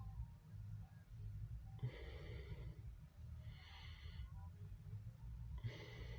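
A person breathing three times close to the microphone, over a faint steady low rumble.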